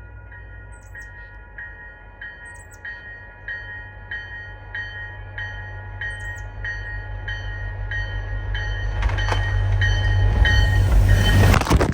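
MBTA commuter train approaching at speed: a low locomotive rumble swells steadily under a bell ringing about one and a half strokes a second. From about nine seconds in, a rising rush of noise builds as the train arrives throwing snow, loudest just before it breaks off near the end.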